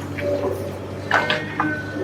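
Komatsu PC350LC excavator's diesel engine running steadily, with a few short sharp sounds about a second in.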